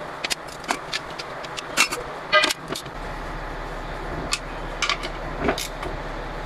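Scattered sharp metal clinks and knocks of tools and parts being handled, one giving a short ringing tone, while work on the truck alternator is wrapped up. A low steady hum starts partway through.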